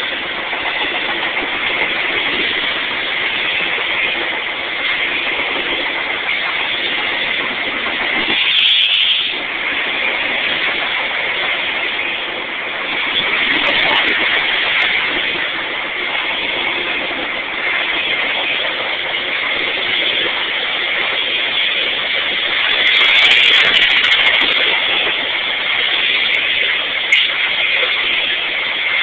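Train running past: a steady rushing noise, with short sharp high-pitched bursts about nine seconds in and twice near the end.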